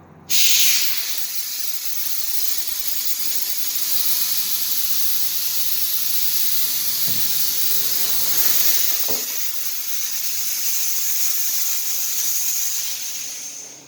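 Air-ride suspension dumping air from its air bags to lower the truck: a loud, steady hiss that starts suddenly and tails off near the end.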